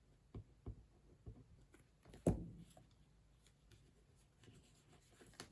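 Light handling noises of a book cover and fabric being worked on a tabletop: a few soft taps, then one sharper knock a little over two seconds in.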